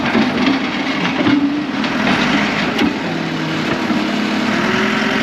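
Tractor engine running under load while its loader bucket digs in mud. The pitch shifts as it works, rising near the end, with a few knocks.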